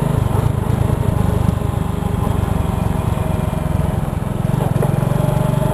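Cruiser motorcycle engine running as the bike rides along at low speed, a steady low pulsing.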